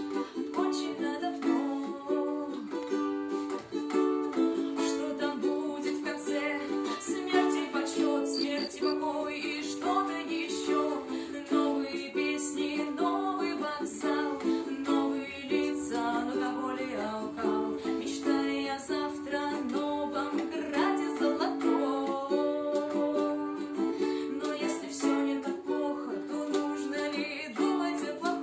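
Music: a strummed acoustic string instrument playing a steady, even rhythm, with a melody moving above it.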